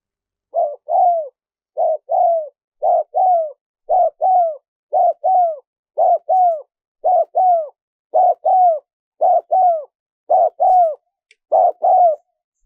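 Spotted dove cooing: eleven paired coos at about one pair a second, each a short note followed by a longer coo that falls in pitch. This is the territorial call played to lure wild doves.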